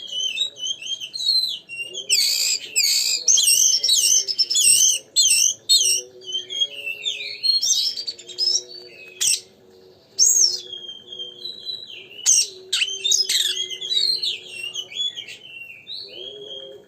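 Oriental magpie-robin (kacer) singing a loud, varied song of fast whistled phrases, warbles and sharp chip notes, with short gaps between phrases. A faint steady low hum runs underneath.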